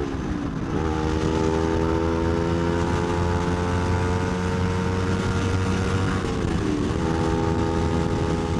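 Kawasaki Ninja 250R's parallel-twin engine accelerating hard, its pitch climbing slowly. Twice, about a second in and again about seven seconds in, the revs dip briefly and jump back up as a gear is changed, over a low rumble underneath.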